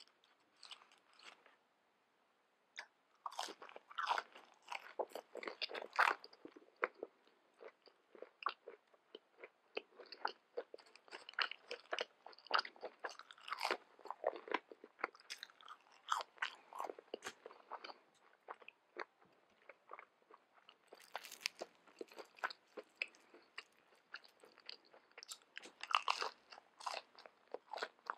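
Close-miked ASMR eating: a crispy breaded fried fish fillet being bitten and chewed, with dense crisp crunches starting about three seconds in and going on throughout.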